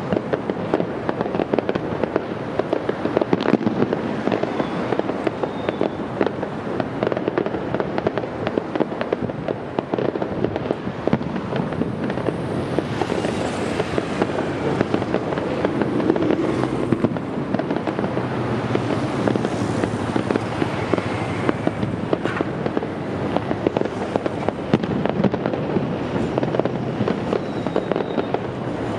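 Fireworks display: a dense, unbroken barrage of bangs and crackling, with a few short whistles through it.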